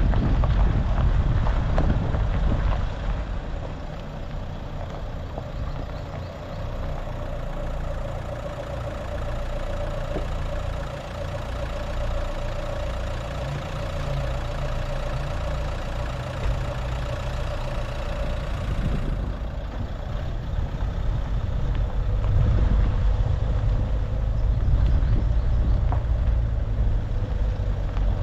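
A car's engine running with a steady low rumble and road noise, with a steady hum through the middle part.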